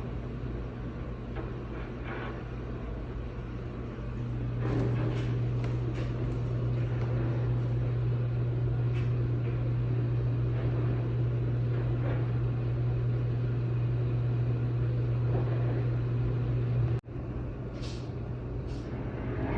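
Steady low drone of running construction machinery, one deep hum held throughout with faint knocks above it, louder from about four seconds in and briefly cut off near the end.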